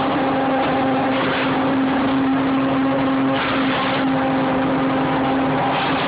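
Aston Martin Le Mans race car's engine running at a steady speed, one held tone, with short bursts of hiss every second or two.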